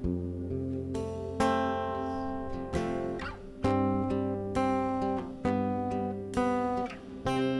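Acoustic guitar strumming chords, each struck about once a second and left to ring: the instrumental opening of a worship song.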